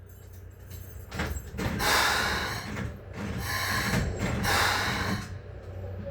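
A Keikyu 600 series electric train standing with a low hum, while several bursts of compressed-air hiss come from its pneumatic door and brake equipment between about one and five seconds in.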